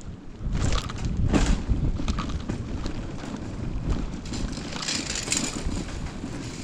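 Wind rumbling on the microphone, with a few sharp knocks and rattles in the first two seconds and a short hiss about five seconds in.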